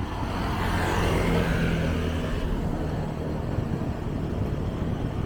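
A motor vehicle passing close by, swelling about a second in and fading over the next couple of seconds, over steady street traffic noise.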